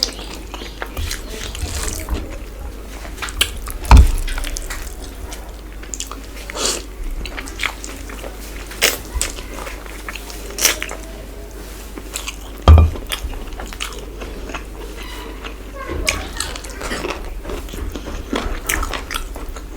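Close-miked eating of chicken curry and rice: chewing with wet mouth clicks and smacks. Two loud low thumps land about four and thirteen seconds in.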